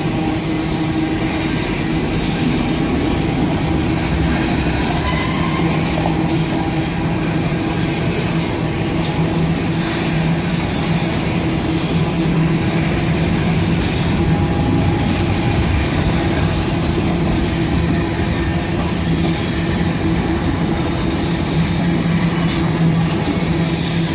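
Freight train boxcars rolling past, a steady loud rumble of wheels on rail with a clickety-clack.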